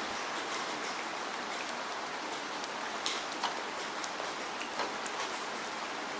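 Steady rain falling, an even hiss with scattered sharper ticks of single drops striking a surface.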